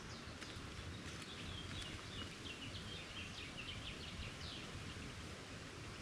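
A bird singing a quick run of short, high chirps for about three seconds, starting about a second and a half in, over faint background noise.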